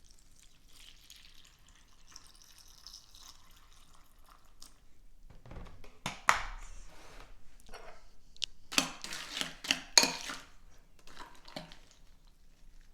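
A spoon moving through cereal in orange juice in a bowl: faint liquid sloshing and drips, then a few sharp clinks of the spoon against the bowl, most of them about nine to ten seconds in.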